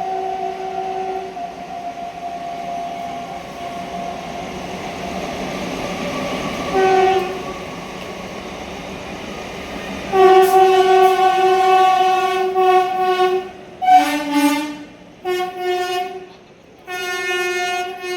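Two passenger trains, a MEMU and an express, crossing with horns sounding over the rumble of the running trains. A held horn note at the start, a short blast about seven seconds in, a long blast from about ten seconds that drops in pitch near fourteen seconds, then two short blasts.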